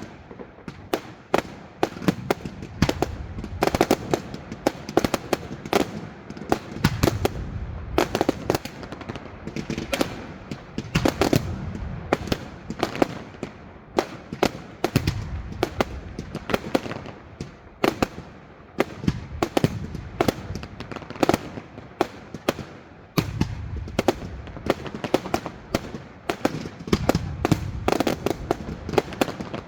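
Fireworks display going off continuously: rapid, irregular sharp bangs and crackles with low booms from shells bursting in between.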